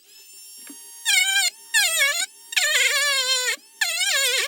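A small high-speed rotary tool running, its whine swelling loud and sagging in pitch in four passes as it cuts into the hull around the prop shaft, easing back to a faint steady whine between passes.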